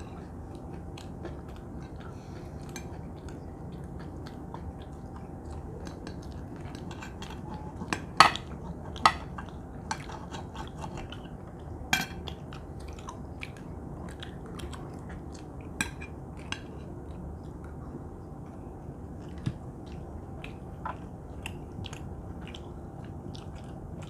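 Cutlery clinking and scraping on plates while people chew steak, with a few sharp louder clinks scattered through, over a steady low background noise.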